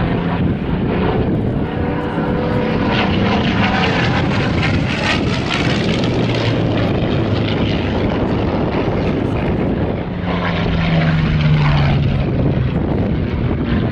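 A Spitfire's Rolls-Royce V-12 piston engine running loud and steady with its propeller turning during an engine run-up, the note swelling slightly about ten seconds in.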